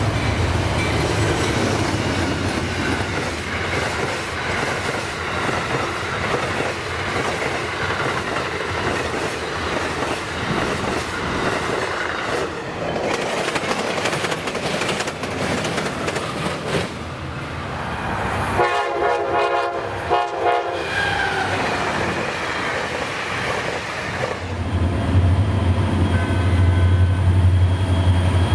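Passenger trains passing close by: wheels clattering over the rails and cars rushing past. Near the end, Florida East Coast Railway freight diesel locomotives approach with a deep, steady engine drone.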